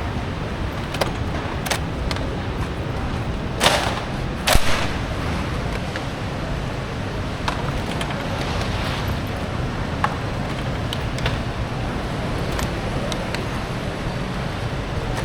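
Steady background din of a busy market, with scattered knocks and two louder sharp clatters about four seconds in.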